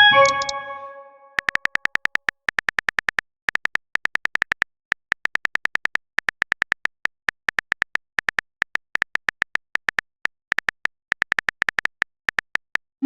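A bright chime of several notes at the start, dying away over about a second. Then rapid phone-keyboard typing clicks, about six a second, come in runs with short pauses, and a short rising blip sounds at the very end.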